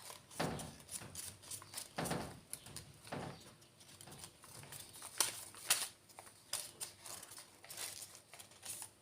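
Faint rustling and crinkling of a folded paper origami model being handled, with scattered soft taps and clicks.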